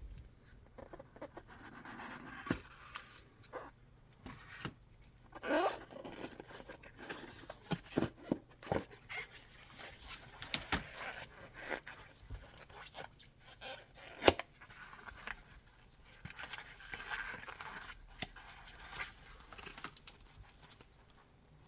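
Earphone packaging being handled and opened by hand: irregular rustling, scraping and tearing of paper and cardboard, with scattered clicks and taps. A single sharp click about fourteen seconds in is the loudest.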